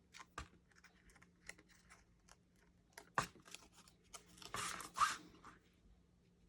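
Faint paper-crafting handling sounds on a tabletop: scattered light taps and clicks, a sharp click about three seconds in, and a short papery rustle near the end.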